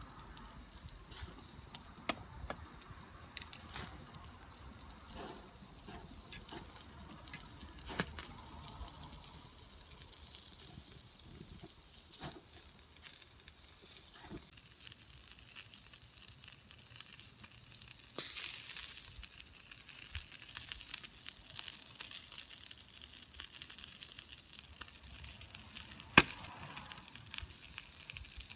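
Campfire wood crackling with scattered small pops, a burst of hissing partway through and one sharp crack near the end, over a steady high-pitched tone.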